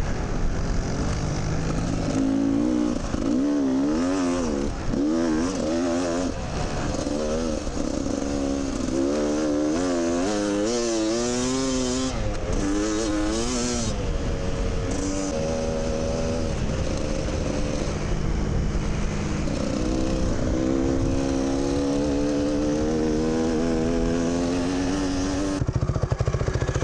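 Dirt bike engine revving up and down as it works through soft sand, then holding a steadier, slowly rising pitch; the sound changes abruptly just before the end.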